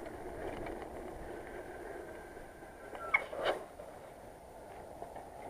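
Steady rush of riding noise on a bicycle, with a short high squeal that slides down in pitch and a brief louder burst about three seconds in.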